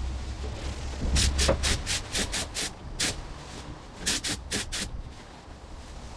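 Paint spray gun hissing in short, quick bursts, about four a second: a run of seven, a single burst, then a run of four, as paint is laid on in short trigger pulls.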